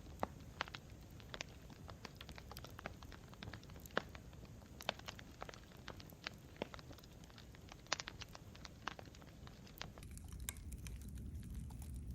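Campfire crackling: irregular sharp pops and snaps from burning wood over a steady low rumble, the rumble getting a little stronger near the end.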